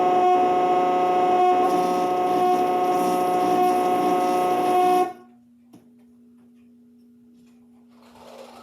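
Loud, steady moaning drone from a VHS tape's ending played through a TV speaker at full volume, one held tone that cuts off suddenly about five seconds in. A faint low hum remains after it.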